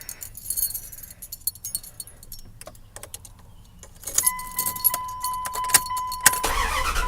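Keys jangling and clicking at the ignition of a 1998 Dodge Ram 1500, then a steady high electronic warning tone from about four seconds in. Near the end the starter cranks the V8 briefly and it catches, starting easily.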